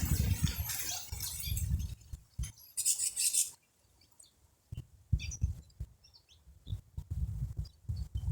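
Small birds chirping in short, scattered calls, with a low rumble of wind or handling noise in the first couple of seconds and a few clicks.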